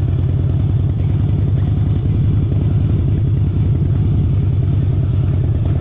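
Harley-Davidson motorcycle's V-twin engine running steadily, a low, even, fast-pulsing exhaust note with no revving.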